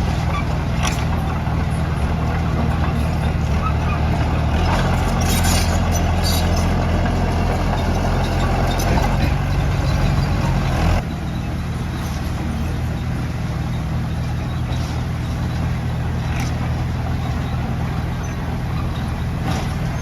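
Heavy earthmoving machine's diesel engine running steadily, working harder for several seconds with a few metallic clanks. The sound drops off abruptly about eleven seconds in and settles to a lighter, steady run.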